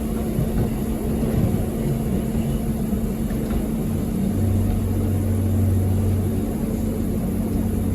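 Passenger train running, heard from inside the carriage: a steady low rumble with a constant hum, and a deeper drone setting in about four seconds in.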